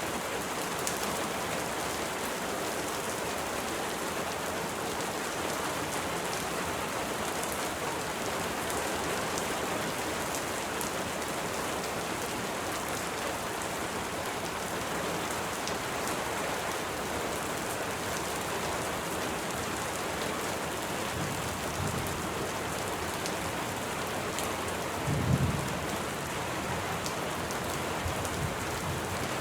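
Steady rain, an even hiss of many drops without a break. A low rumble of thunder comes in twice near the end, faintly and then more strongly.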